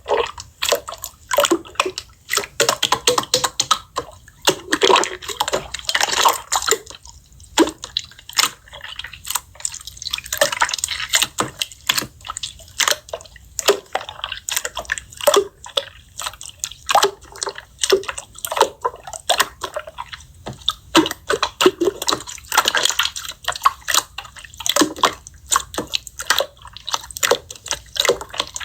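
Slime being squeezed and pressed by hand, making a dense, irregular run of wet clicks and pops.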